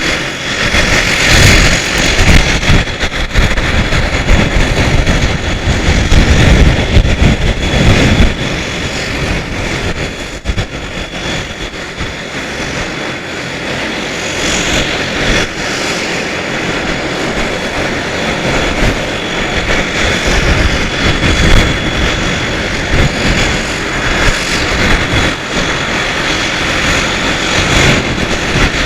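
Embraer EMB 120 Brasilia's twin Pratt & Whitney Canada PW118 turboprop engines running, with a steady high whine over the propeller and engine noise. The low rumble is heavier for about the first eight seconds, then settles.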